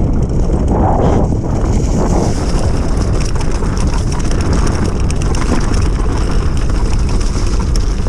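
Wind rushing over the microphone, with the running noise of an electric enduro bike with a 3000 W hub motor being ridden, and faint small knocks from the bike over the ground.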